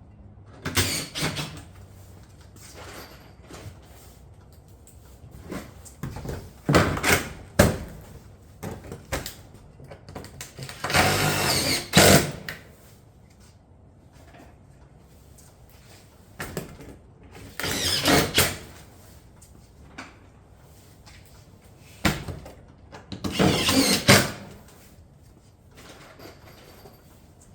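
Power tool driving fasteners through steel roofing panels into the deck, in about ten short runs with a few sharp knocks between pauses. The longest and loudest runs come about eleven seconds in and near the end.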